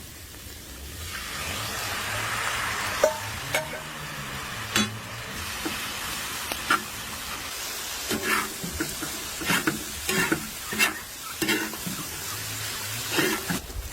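Food sizzling as it fries in a pan and is stirred, with scrapes and knocks of the utensil against the pan. The sizzle swells over the first few seconds, and the knocks come more often in the second half.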